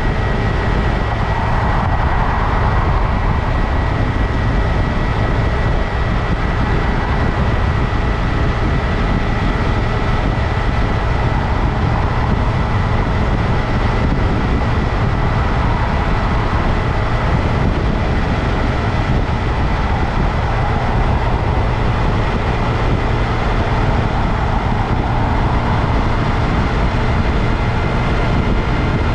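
2022 Honda Grom's single-cylinder engine running steadily under way with heavy wind and road noise, and a constant high-pitched whine over it.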